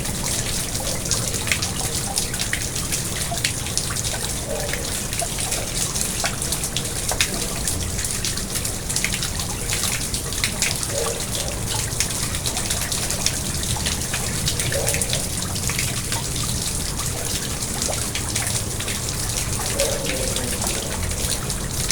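Garden pond water trickling and splashing steadily, with many small drips.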